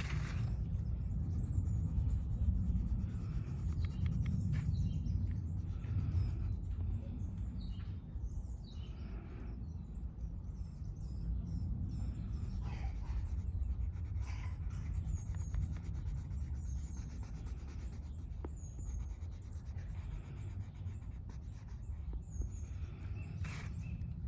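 Short strokes of coloring on paper, with small birds chirping now and then over a steady low outdoor rumble.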